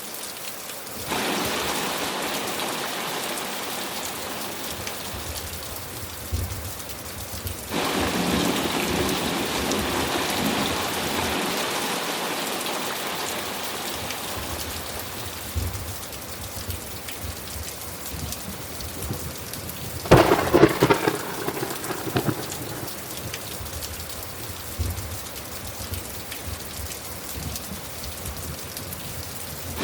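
Steady heavy rainfall, its hiss jumping abruptly louder twice, about a second in and again about a quarter of the way through. About two-thirds of the way through, a close thunderclap cracks loudly and rumbles on for a couple of seconds.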